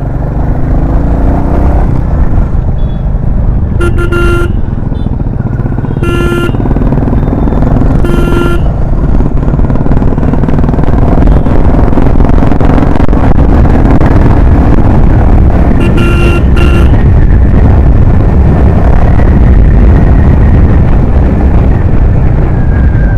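Royal Enfield Classic 350's single-cylinder engine running steadily while the bike is ridden. Short horn honks sound about four seconds in, at about six and eight seconds, and twice in quick succession near sixteen seconds.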